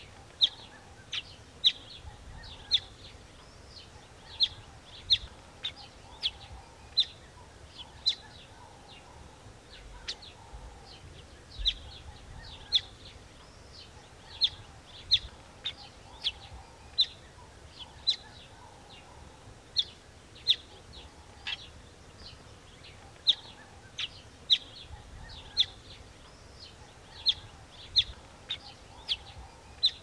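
Small bird giving short, sharp chirps, about one a second at uneven intervals with a pause near the middle, over a faint outdoor background.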